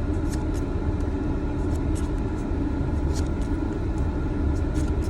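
Steady low hum of a car engine idling, heard from inside the cabin, with several short crisp snaps of trading cards being flipped through by hand.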